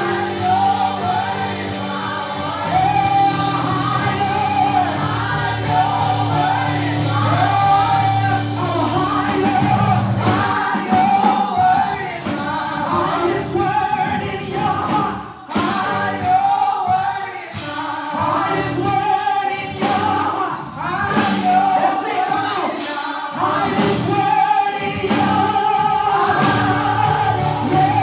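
Live gospel worship music: a choir singing over a band with sustained bass notes and drum hits, with a brief drop in the music about halfway through.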